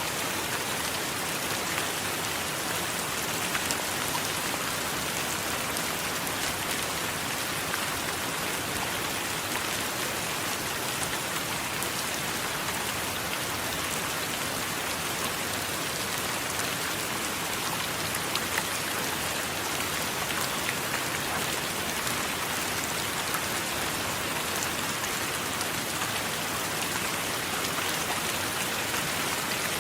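Steady rain falling, with many individual drops pattering throughout.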